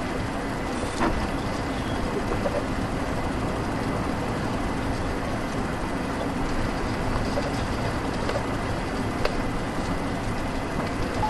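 Steady road and engine noise of a moving car heard from inside the cabin, with a couple of faint ticks.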